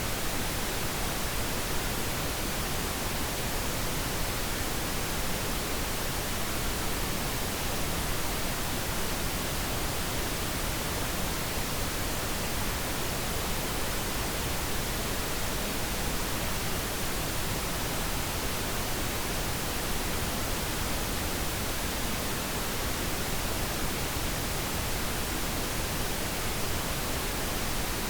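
Steady pink noise, an even, unchanging hiss for sleep and soothing babies.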